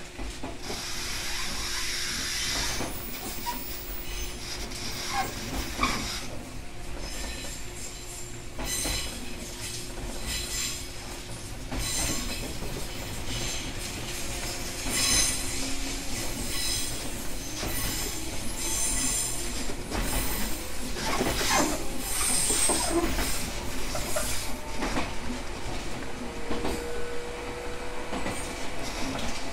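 JR West 123 series electric railcar running along the line, heard from inside the car. Its wheels squeal in high-pitched stretches, loudest through the middle, over the rolling rumble and repeated knocks from the rail joints.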